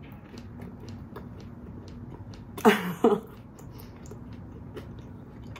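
Close-up chewing of pizza with faint wet mouth clicks. About halfway through comes a short hummed vocal sound in two quick parts, falling in pitch.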